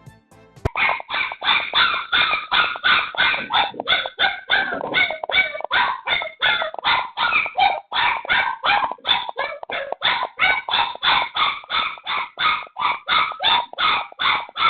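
Stray puppy yelping and barking over and over, about three short cries a second without let-up, starting abruptly just under a second in: a puppy crying and not settling.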